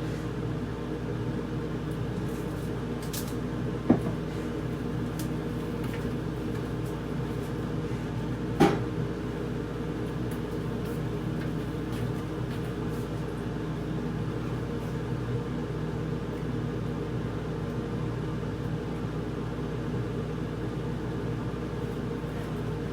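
A steady mechanical hum runs throughout, with two sharp knocks: one about four seconds in, the other about five seconds later.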